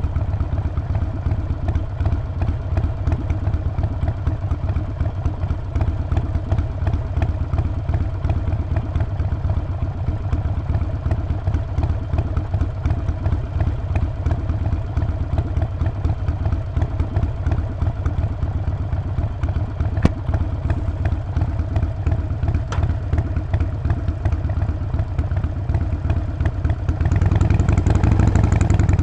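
Harley-Davidson Sportster 48's air-cooled 1200 cc V-twin running steadily with its uncorked exhaust note, growing louder near the end as the throttle opens.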